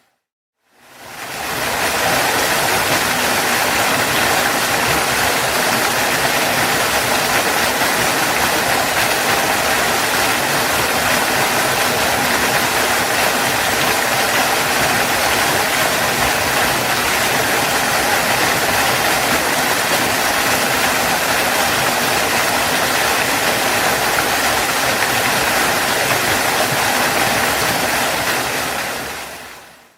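Waterfall rushing, an even, unbroken roar of falling water. It fades in from a brief silence at the start and fades out to silence near the end.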